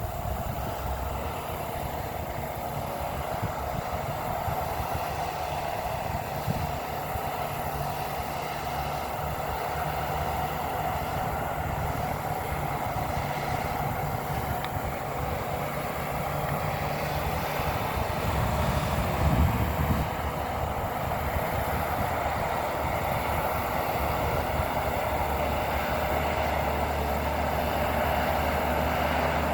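Bulldozer's diesel engine running steadily at a distance as it clears brush, briefly louder about two-thirds through.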